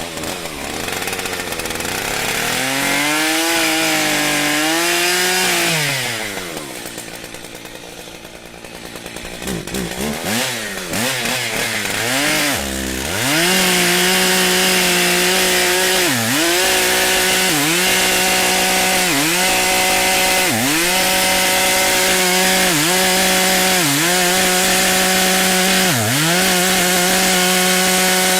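Stihl MS880 two-stroke chainsaw revved up and let back down, blipped a few times, then held at full throttle for the second half. At full throttle its pitch dips briefly about every second and a half as the chain bites into the wood.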